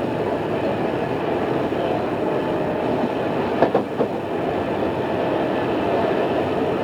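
Onboard running sound of an Odakyu 2600 series electric train under way, a steady rumble of wheels and motors. Two clicks about half a second apart, about three and a half seconds in, as the wheels pass over a rail joint.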